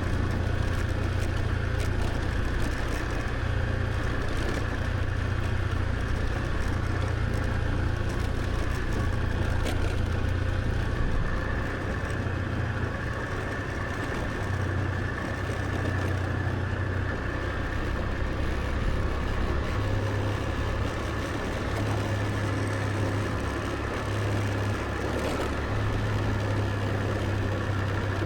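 Scooter riding along at a steady pace: engine and road noise with a strong low rumble and a faint steady whine above it.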